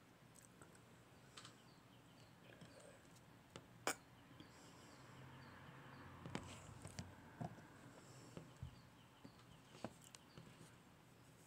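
Near silence: faint outdoor ambience with a small bird chirping over and over, about twice a second, and a few scattered ticks and taps.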